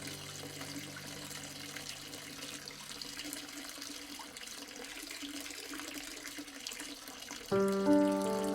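Steady gently running water, with soft held music tones that fade out a few seconds in. About a second before the end, louder music with held notes comes in over the water.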